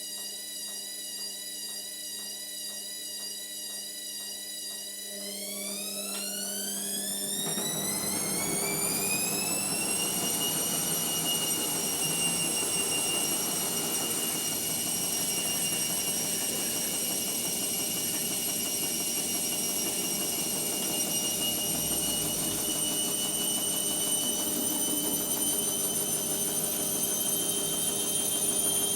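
Indesit MyTime washing machine speeding up into a spin: a motor whine rises in pitch for about five seconds from about five seconds in, then holds steady at speed, with the drum rumbling louder underneath.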